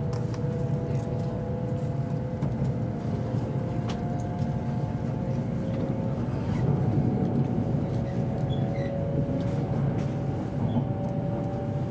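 Inside an E7 series Shinkansen car moving away from a station: a steady low running rumble, with a faint motor whine slowly rising in pitch as the train gathers speed.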